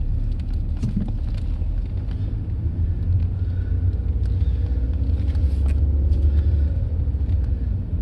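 Low, steady rumble of a 2010 BMW 328i's inline-six and tyres heard inside the cabin as the car pulls away at low speed, growing a little louder partway through.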